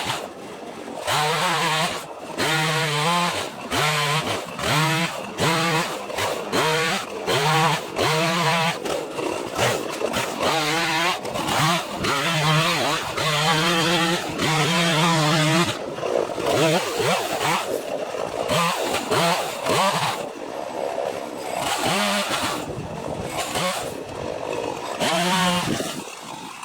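Gas chainsaw cutting into a dead box elder trunk. For the first half the engine speed surges and drops over and over, about one and a half times a second. After that it runs more continuously, its pitch wavering under load.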